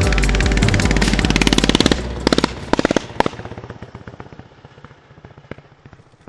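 Tillotson 212cc single-cylinder mini bike engine running, its exhaust giving rapid sharp pops, which grow sparser and fade away steadily over the last few seconds, over music that stops about two seconds in.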